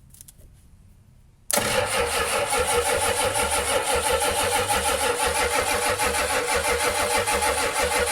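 Starter cranking a 7.3 IDI V8 diesel engine, which begins suddenly about a second and a half in and keeps going with an even pulsing rhythm. The engine does not fire.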